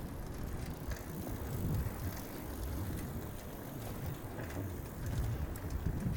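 Bicycle rolling along a wooden boardwalk: a low, uneven rumble of the tyres running over the planks.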